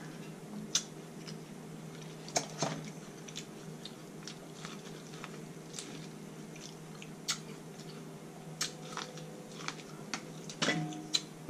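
Close-up eating sounds of a person biting into and chewing corn on the cob, with scattered wet clicks and crunches, a little louder near the end, over a faint steady hum.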